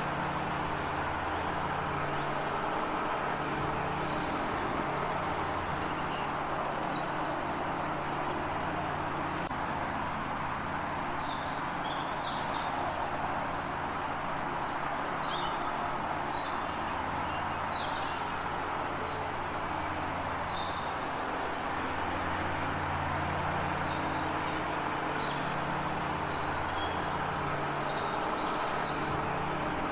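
Small birds giving short, high chirps again and again over a steady background rumble whose low hum slowly rises and falls.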